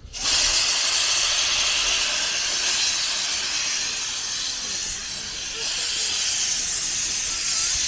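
Steam locomotive venting steam: a loud, steady hiss that starts suddenly.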